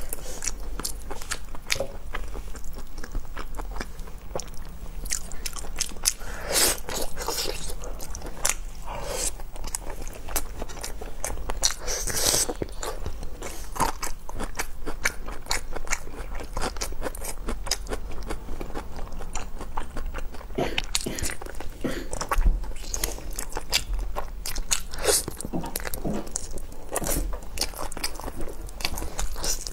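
Close-miked chewing and biting of braised pig trotter, many quick irregular clicks and mouth sounds as the meat and skin are bitten, torn and chewed.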